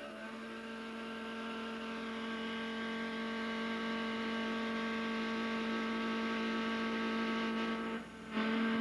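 Two-stroke chainsaw running steadily at full throttle with no load, its high-speed mixture screw turned in half a turn so it runs lean. It builds slightly in level over the first few seconds and breaks off briefly near the end before resuming.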